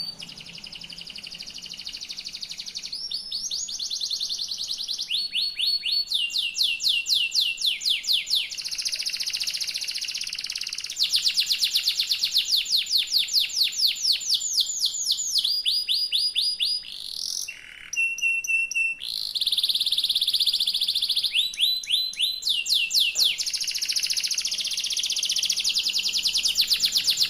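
Yellow domestic canary singing continuously in long rolling trills: runs of fast repeated notes that change to a new phrase every few seconds, with a short drop and a thin held note about two thirds of the way through.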